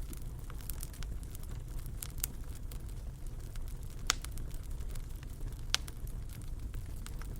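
Fire in a fireplace crackling over a steady low rumble of the flames, with two louder pops about four and six seconds in.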